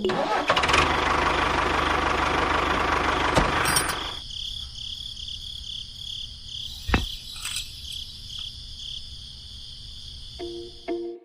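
A rushing noise over a low hum for about four seconds, then it cuts off, leaving a quieter, steady high pulsing buzz.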